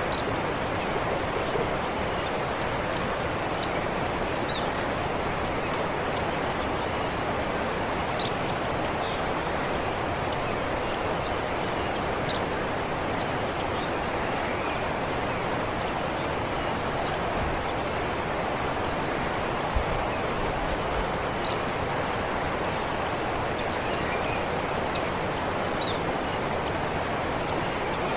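Forest stream flowing with a steady rush of water, while small birds give short, high chirps again and again over it.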